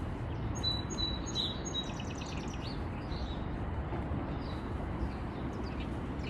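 Birds chirping in the background: a few short high whistled notes, then a quick chattering run of notes about two seconds in, with scattered faint chirps after, over a steady low background rumble.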